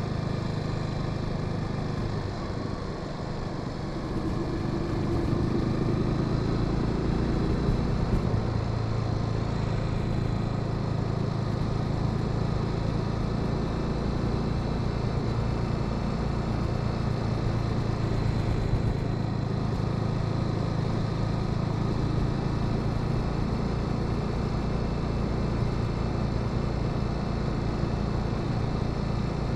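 Motorcycle engine from the rider's seat, likely the Honda Sahara 300's single-cylinder. The engine note eases off a couple of seconds in, picks up again as the bike accelerates, then holds steady at cruising speed.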